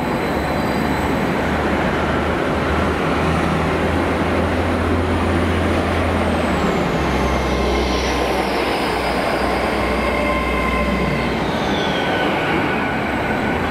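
GWR Hitachi Intercity Express Train running in along the platform with a steady low rumble of wheels and underfloor machinery. A high electric whine falls in pitch twice as the train slows.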